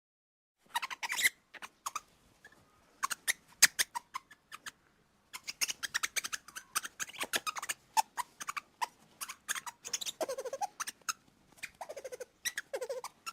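Primate calls: irregular runs of short, sharp, high chirps and squeaks, with a few lower calls falling in pitch near the end.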